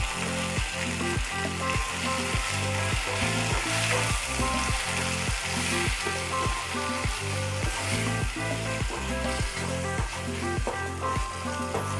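Diced tomatoes and browned onions sizzling in hot oil in a steel kadai as a spatula stirs them, under background music with a steady beat.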